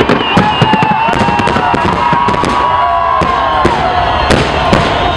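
Fireworks display going off: a rapid, dense run of sharp bangs and crackles from bursting shells, layered with several whistling effects, some of them sliding down in pitch.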